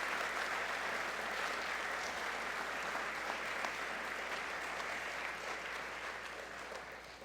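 Audience applauding steadily in a large gym hall, then dying away near the end.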